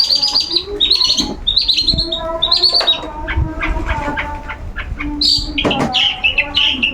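Long-tailed shrike (cendet) calling continuously in a rapid series of short, high, chattering notes, typical of a caged shrike in full voice while being sunned.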